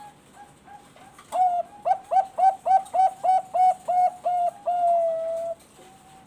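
Zebra dove (Bangkok-line perkutut) singing its song: a few soft notes, then from about a second in a string of about ten quick, loud coos, roughly three a second, ending in one long drawn-out note that dips slightly in pitch.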